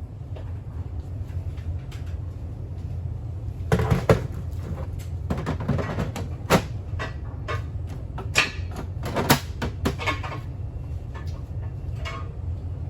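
Irregular clicks and knocks of hard parts being handled and set down, over a steady low hum. The loudest cluster comes about four seconds in, with single sharper knocks later.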